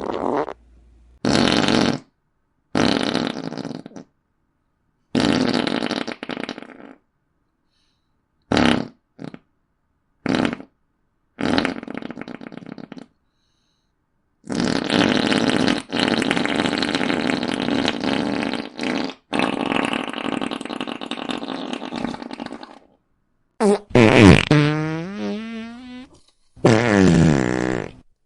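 A string of fart sound effects, one after another with short silences between: several brief pops and rasps, one long drawn-out fart lasting about eight seconds midway, and near the end one that sweeps up in pitch.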